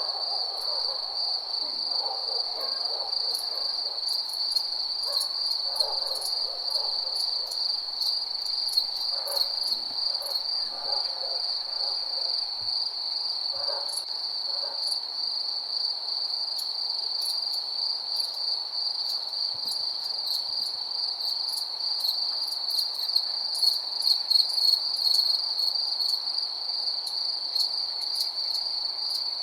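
Night-time chorus of crickets chirping steadily in a continuous high pulsing trill, with scattered high ticks. Fainter, lower calls come and go during the first half.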